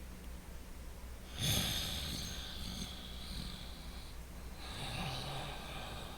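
Loud, deliberate breathing through the nose: one long hissing breath starts sharply about a second and a half in, then after a short pause a second, shorter breath follows.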